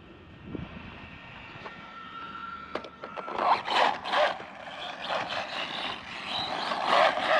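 Arrma Mojave Grom BLX brushless RC truck driving over rough dirt: a faint steady motor whine, then from about three and a half seconds in, loud gritty scrapes as its tyres scrabble over the ground, loudest twice near the middle and again near the end.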